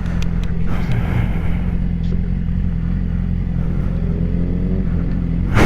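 Yamaha R6's inline-four motorcycle engine running steadily at an even pitch, with a faint rising whine joining in over the last couple of seconds.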